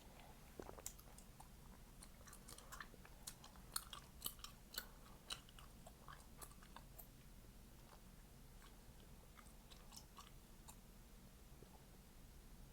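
Chewing gum close to the microphone: wet clicks and snapping pops, with a run of louder pops from about two to six seconds in, then fewer and softer ones.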